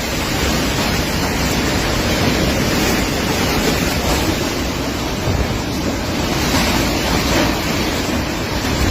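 Strong storm wind blowing hard in a steady, loud rush, buffeting the phone's microphone.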